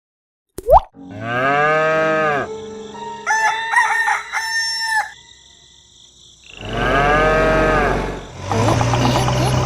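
Farm animal calls: a cow moos, a rooster crows, then a cow moos again. A short pop comes just before the first moo.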